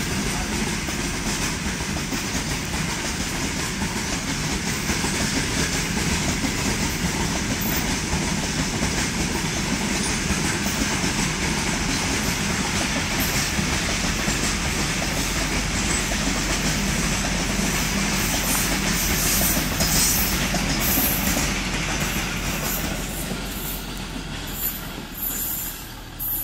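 A rake of loaded BCNA covered freight wagons rolling past, its steel wheels making a steady rumble and clatter on the rails. Short high-pitched squeaks and clicks come in the second half, and the noise fades over the last few seconds as the last wagon goes by.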